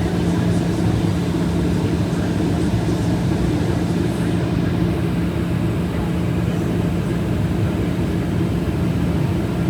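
Airplane engine drone, steady and unchanging, with a constant low hum.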